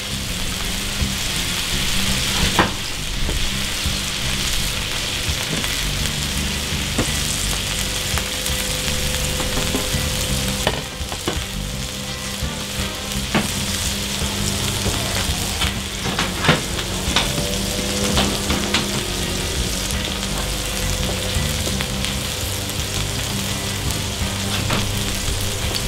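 Beef patties and sliced onions sizzling steadily on a flat-top griddle, with scattered pops and crackles of fat.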